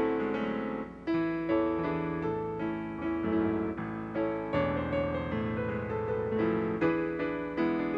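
Piano playing a slow instrumental piece: struck chords and melody notes that fade after each attack, changing about once a second.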